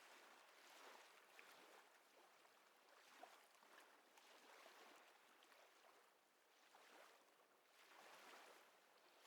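Faint ocean waves washing in the background, a soft hiss that swells and fades every second or two.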